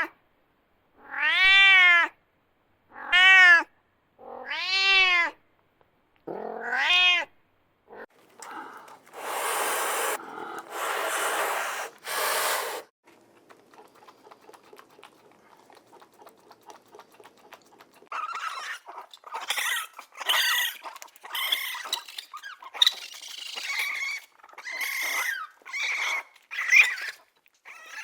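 An animal calling: about five drawn-out wailing calls, each rising then falling in pitch, then three hissing blasts, then a run of shorter, choppier calls near the end.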